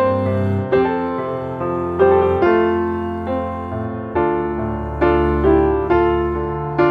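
Background music: slow, gentle piano playing chords, a new chord struck roughly every second and left to fade.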